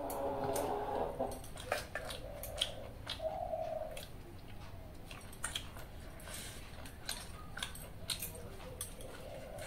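Close chewing and small clicking mouth and finger sounds of someone eating by hand. A bird calls in the first second and again briefly about three seconds in.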